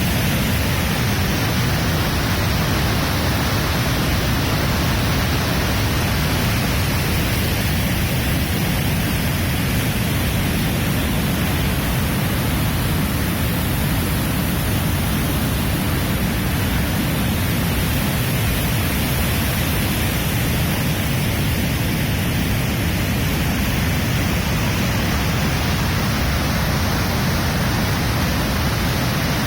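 Waterfall: water falling and splashing in a loud, steady rush with a heavy low rumble.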